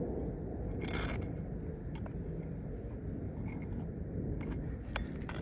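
Hand work on an asphalt shingle roof: a short scrape about a second in and a few light clicks near the end, over a steady low rumble.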